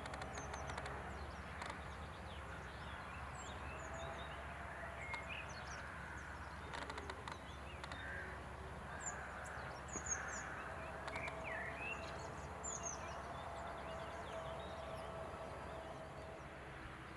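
Songbirds singing and calling in short chirps and trills, several at once, over a steady low outdoor background rumble, with a few faint clicks.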